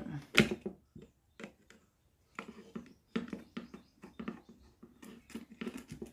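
Light, irregular clicks and scratches of hand work on an electrical wiring board: a wire being taken out of a terminal and handled.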